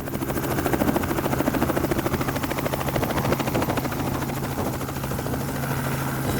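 Helicopter in flight: steady rotor and engine noise with a fast, even pulsing of the blades over a low hum.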